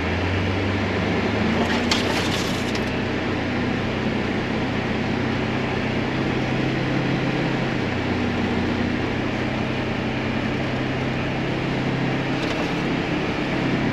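Polaris Ranger Northstar side-by-side's engine running steadily while it drives through deep snow, over a constant hiss. A brief clatter comes about two seconds in.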